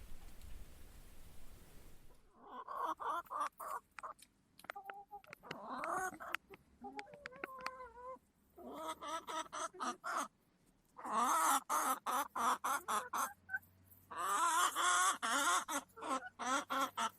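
Chickens clucking and cackling in rapid runs of short, pitched calls, starting about two seconds in and loudest in two fast bursts in the second half.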